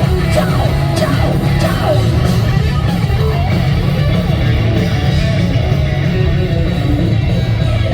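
Live rock band playing loud: distorted electric guitar over a heavy bass and drum backing, with wavering bent guitar or vocal lines in the first couple of seconds.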